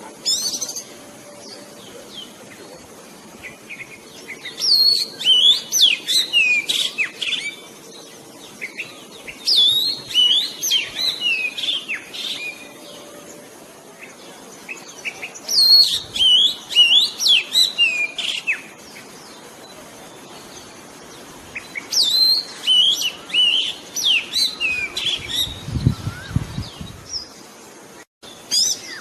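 Oriental magpie-robin singing: phrases of quick, varied whistles and chirps, about every five to six seconds, with short pauses between. A brief low rumble near the end.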